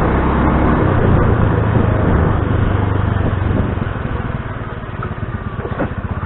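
Motor scooter running on the move, its engine hum under a loud rush of wind noise on the microphone.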